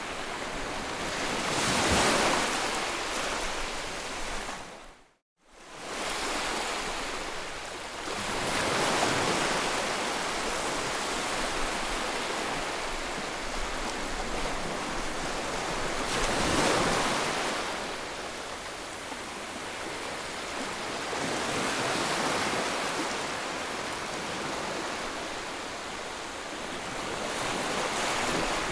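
Ocean waves washing ashore, the surf swelling and falling away about every six to seven seconds. The sound fades out to silence for a moment about five seconds in and comes straight back.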